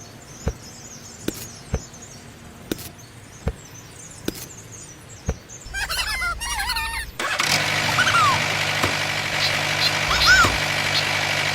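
Light tapping clicks, then a mini tractor's small engine starts about seven seconds in and keeps running steadily.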